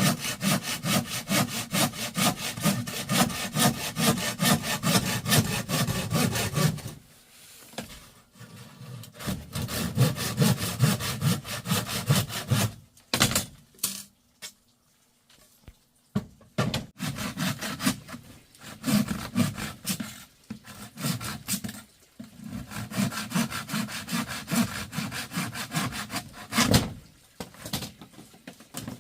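Hand saw cutting through wood in quick, even back-and-forth strokes, in several bouts with short pauses between.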